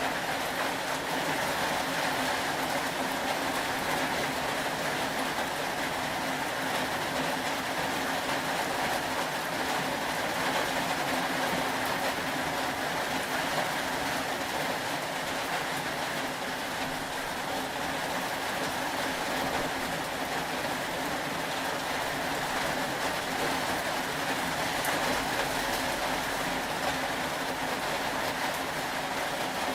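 Steady rainfall: an even, unbroken hiss of rain with no distinct drops or other events standing out.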